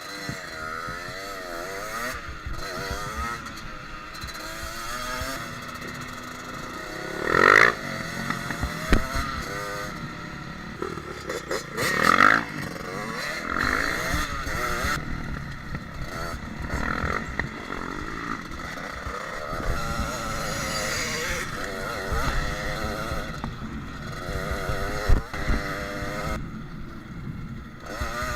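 Dirt bike engine revving up and down as it is ridden along a trail, its pitch rising and falling with the throttle, with two loud, high revs about 7 and 12 seconds in.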